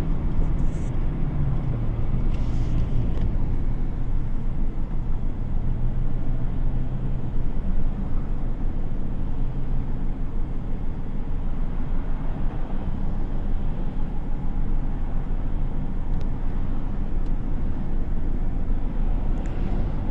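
Car driving on the road: steady engine and tyre rumble, with a brief hiss about two and a half seconds in.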